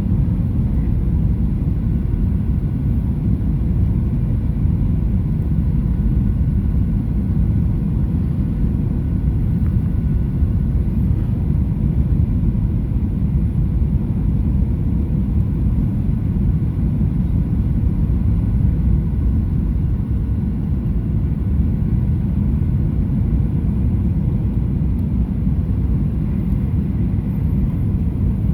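Boeing 737-800 cabin noise from a window seat: a steady low rumble of airflow and CFM56 turbofan engines, with a faint steady whine over it.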